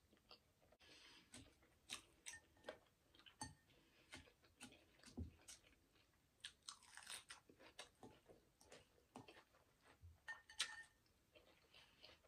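Faint close-miked chewing: irregular wet smacks and little clicks of a mouth working through a bite of shrimp and chicken alfredo, with a few crunchy bites.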